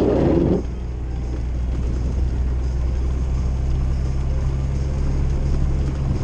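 Old Jeep's engine and road noise droning steadily inside the cabin while driving.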